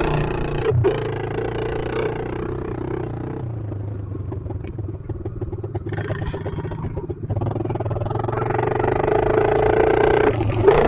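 Pit bike's small single-cylinder engine during laps: it eases off the throttle, dropping to a lower, choppier run in the middle where single firing pulses can be heard, then builds revs again toward the end.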